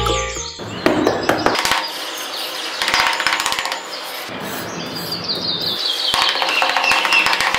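A small metal trowel scraping and smoothing loose sand, a gritty rasp broken by many small clicks.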